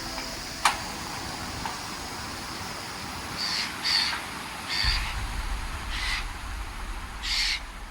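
A bird giving a series of short harsh calls, about five spread over four seconds and starting about three seconds in, over a steady background hiss. There is a sharp click under a second in, and a low rumble comes in about halfway through.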